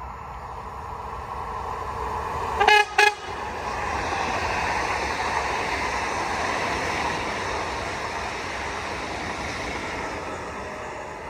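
Train sounding two short horn blasts, each a single pitched tone, then passing by with a steady rolling noise that swells and slowly fades.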